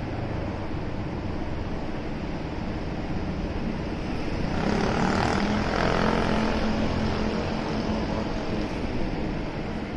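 Steady motor-vehicle road noise heard from a moving motorcycle: engine rumble with wind rush. A louder engine sound with a steady hum swells up about halfway through and fades again about three seconds later.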